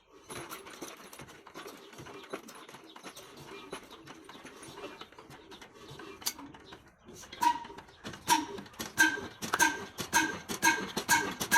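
Old black Ruston & Hornsby diesel engine starting. First comes irregular clattering, then from about two-thirds of the way in, regular ringing beats that come steadily faster as the engine picks up speed.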